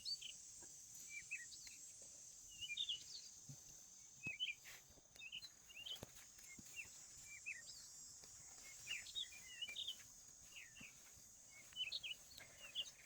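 Small birds chirping, many short quick chirps throughout, faint, over a steady high hiss.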